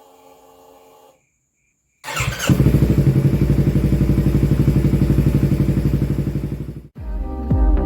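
Yamaha MT-25's parallel-twin engine running loud with a fast, even exhaust pulse, coming in sharply about two seconds in and cutting off abruptly about five seconds later. Music starts just after it stops.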